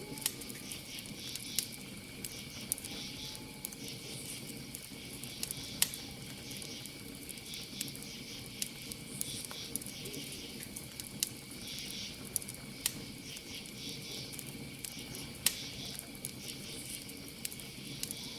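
Campfire crackling, with irregular sharp pops and snaps, the loudest about 6 s and 15 s in, over a low hiss from the burning wood. Behind it, a steady high cricket trill runs without a break.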